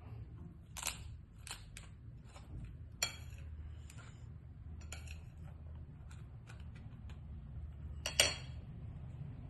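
Crisp puri shells of panipuri cracking and crunching: a scatter of short, sharp crackles, the loudest a little after eight seconds, over a steady low hum.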